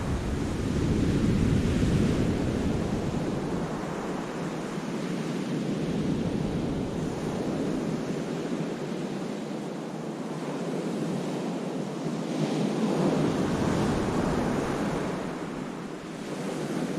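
Sea waves breaking and washing against the rocks and beach of a cove, rising and falling in slow swells, with some wind buffeting the microphone.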